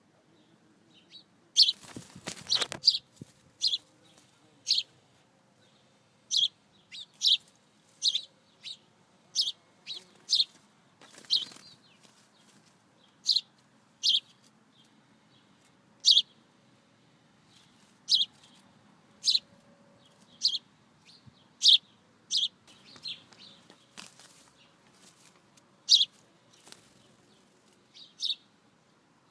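Small bird giving short, sharp chirps, roughly one a second, with a burst of wing flapping about two seconds in and another near eleven seconds.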